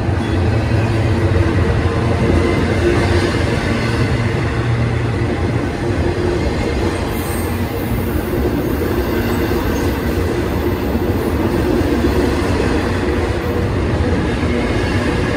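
Double-stack intermodal well cars of a freight train rolling past at close range: a steady, loud rumble and rattle of steel wheels on the rails.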